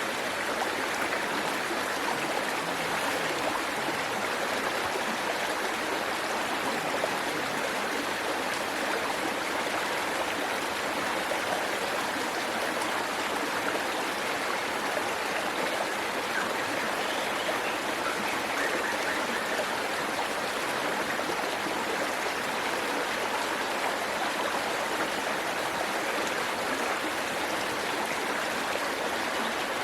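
Waterfall and its stream rushing: a steady, even wash of falling and flowing water with no change throughout.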